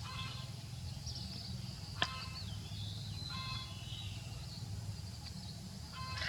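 Birds chirping and calling a few times over a steady low hum, with one sharp knock about two seconds in.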